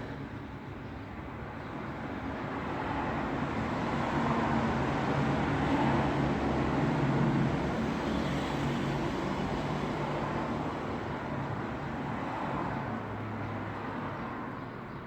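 Road traffic: a motor vehicle's tyre noise and engine hum swelling as it approaches, peaking about halfway, then fading away toward the end.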